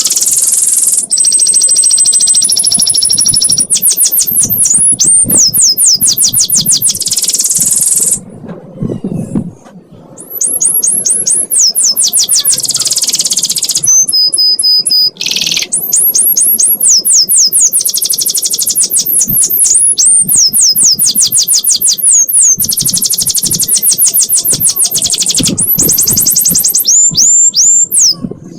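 Canary singing a long, nearly unbroken 'ngekek' song: fast high trills of repeated notes and quick rising and falling sweeps, one run after another, with a short break about eight seconds in.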